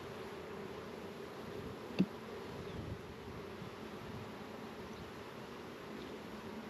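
Honeybees buzzing in a steady hum around an opened hive, stirred up after being smoked. One sharp click about two seconds in.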